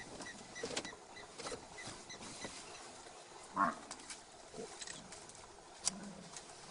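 Faint open-air ambience: a bird gives a series of short, evenly spaced high notes for the first couple of seconds, and a brief animal call sounds once about three and a half seconds in.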